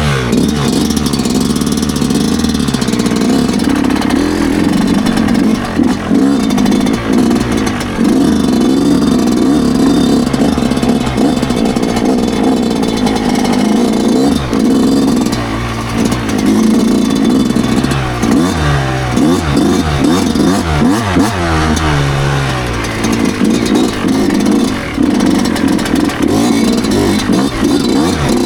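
A 2009 Yamaha YZ125's 125 cc two-stroke single-cylinder engine being ridden on a dirt track, the revs rising and falling with the throttle and gear changes. After about fifteen seconds there are several quick drops and climbs in revs.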